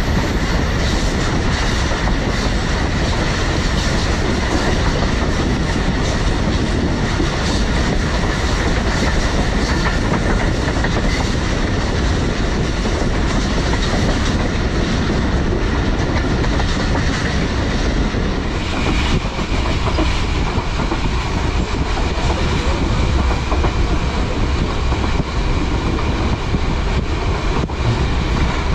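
Pakistan Express passenger train running at speed: a steady rumble with the wheels clattering over rail joints. A steady high whine joins about two-thirds of the way through.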